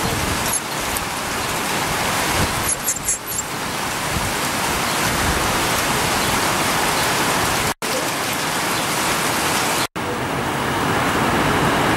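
Heavy rain pouring down onto paving, grass and puddles: a steady, even hiss of a downpour. The sound cuts out for an instant twice in the second half.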